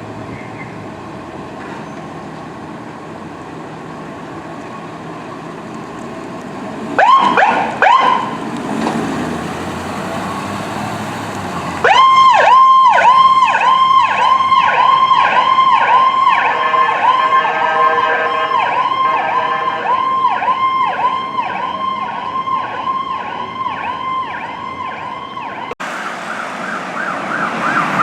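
Fire apparatus responding with electronic sirens: two short rising whoops about seven seconds in, then from about twelve seconds a loud fast yelp repeating about twice a second, soon overlaid by a second, quicker siren pattern. Near the end the sound cuts abruptly to another siren's fast warble.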